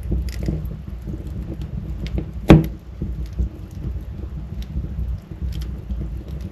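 Wood fire burning in a fireplace: a steady low rumble with scattered small crackles, and one loud sharp pop a little before halfway.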